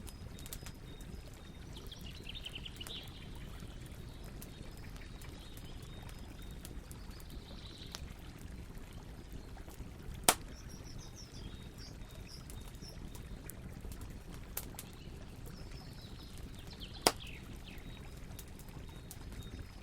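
Campfire burning with a steady low rush and scattered small crackles, broken by two loud sharp pops, one about halfway through and one later on. Birds chirp now and then in the background.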